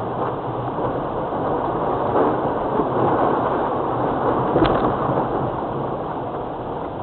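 A 4x4's engine running under a steady rushing noise, with a single brief click about two-thirds of the way through.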